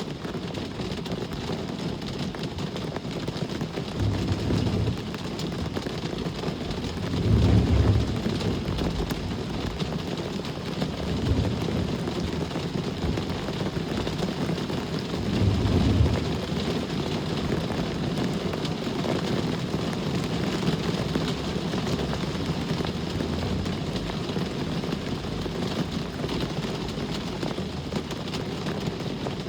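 Steady rain with road traffic: the low rumble of passing vehicles swells up four times in the first half, over an even hiss.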